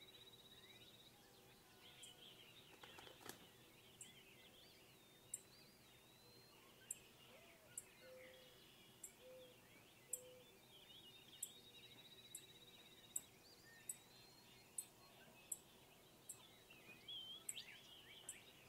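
Faint birdsong: chirps and trills from birds, with a short high tick repeating about once a second.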